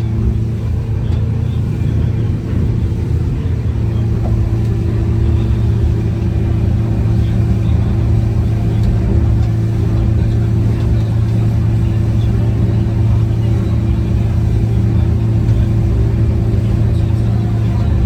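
Fishing boat's engine running at a steady speed while the boat is under way, a constant drone with an even hum.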